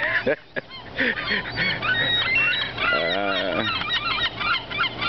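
A flock of seagulls calling, many short overlapping calls, with one lower, longer call nearer by about three seconds in.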